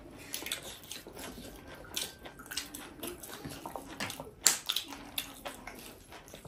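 Close-miked chewing and wet mouth smacks from eating buffalo-meat curry with rice: an irregular run of short clicks and squelches, loudest about four and a half seconds in.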